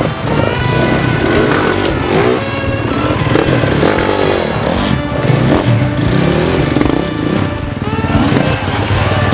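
Dirt bike engines running and revving, with background music over them.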